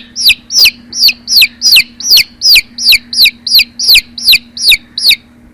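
Domestic chick peeping: a rapid, even series of high, falling cheeps, about three a second, that stops shortly before the end.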